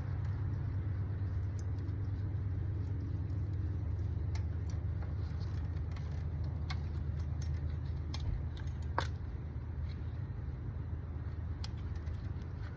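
Scattered sharp metallic clicks and clinks of hand tools on the engine while a spark plug is worked on, the loudest about nine seconds in, over a steady low rumble.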